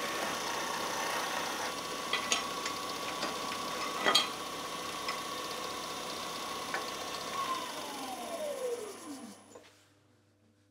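Wood lathe running with a steady whine and a few sharp knocks, the loudest about four seconds in. About seven and a half seconds in it is switched off, and the whine falls in pitch as the lathe spins down to a stop.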